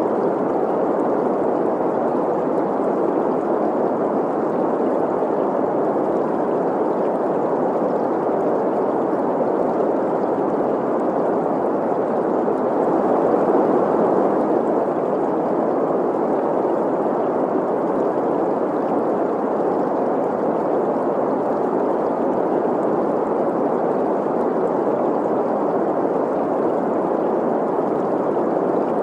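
Synthetic green noise mixed with stream sounds: a steady, even rush centred in the middle range with little deep bass or high hiss, swelling slightly about halfway through.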